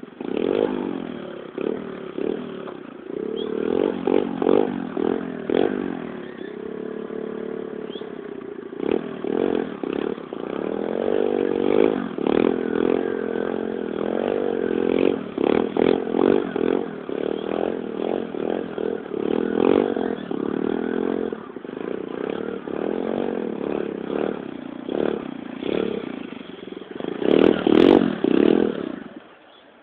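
125cc Torpro pit bike's single-cylinder four-stroke engine ridden in circles, revving up and down with repeated bursts of throttle. The loudest surges come near the end, then the sound stops abruptly.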